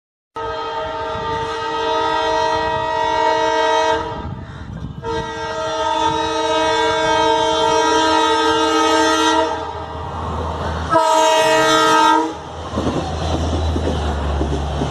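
Diesel locomotive air horn sounding a multi-note chord in three blasts: two long ones of about four seconds each, then a short one. A low train rumble follows near the end.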